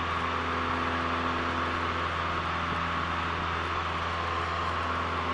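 Cessna 172L's four-cylinder Lycoming engine and propeller droning steadily at climb power, heard inside the cabin.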